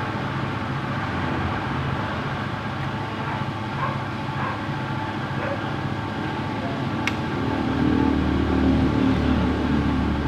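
Steady motor-vehicle engine noise, growing louder about eight seconds in, with a single sharp click about seven seconds in.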